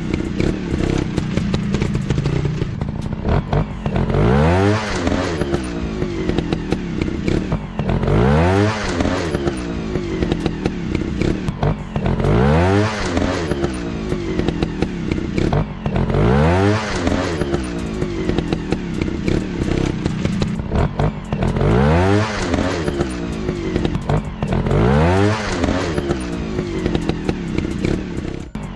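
Dirt bike engine running, with the throttle blipped about every four seconds into a quick rising rev over a steady running note.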